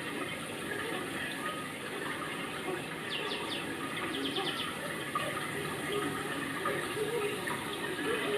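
Steady rushing of running water, with a faint murmur of voices under it. A few quick, short high chirps come in two short runs about three and four seconds in.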